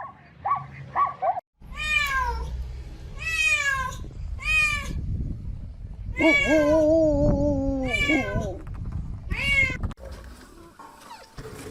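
An animal calling repeatedly: a string of loud wailing cries, each falling in pitch, with one long drawn-out cry about halfway through, over a low rumbling noise.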